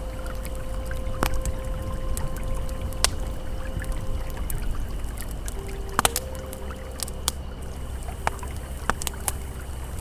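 Campfire crackling with scattered sharp pops over the steady low rush of a flowing river. Soft held ambient tones sound underneath, changing pitch about six seconds in.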